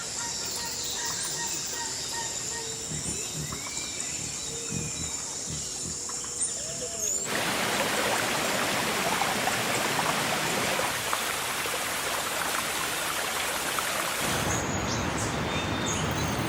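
Birds chirping over a steady high tone. About seven seconds in, the sound changes abruptly to a steady, even hiss of rain.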